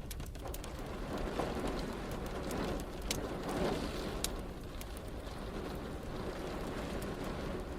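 Wood fire crackling with scattered sharp pops over steady rain, and a low rumble of distant thunder swelling and fading in the middle.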